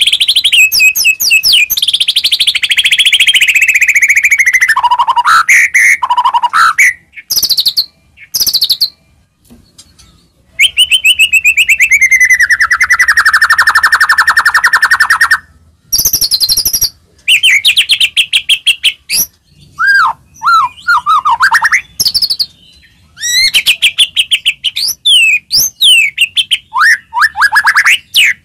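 White-rumped shama (murai batu) singing loudly and aggressively: two long, fast rattling trills, the first falling in pitch, broken up by quick varied phrases of sharp sweeping whistles. It is a fighting song, the kind played to provoke a captive shama into singing.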